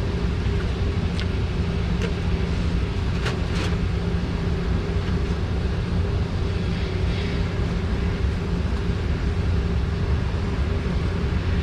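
Steady low mechanical hum from a running machine, with a few light clicks of hand tools in the first few seconds.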